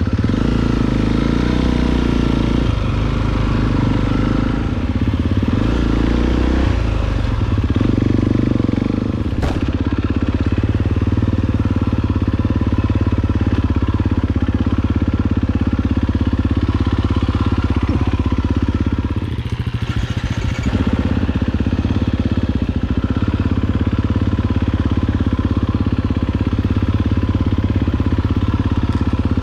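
KTM 250 EXC-F's single-cylinder four-stroke engine running steadily down a rocky descent, with rattling and clatter from the bike over the rocks. A sharp knock about nine seconds in, and the engine briefly drops off around twenty seconds in.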